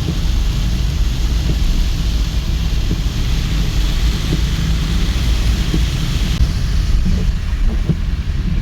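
Steady low rumble of a vehicle driving on a rain-soaked road, with an even hiss of heavy rain and tyre spray over it.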